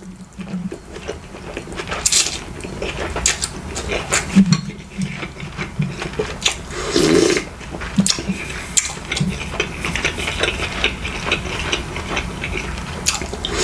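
Close-miked eating: chewing with many small wet clicks and crackles.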